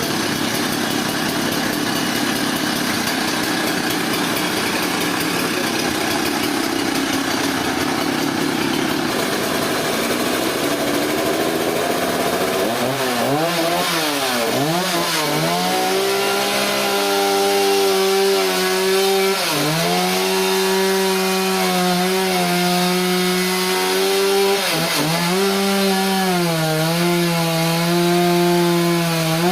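Power saw cutting through a large trembesi log. A rough steady noise for the first part, then from about halfway a strong humming tone whose pitch dips sharply every few seconds as the saw bogs down under load.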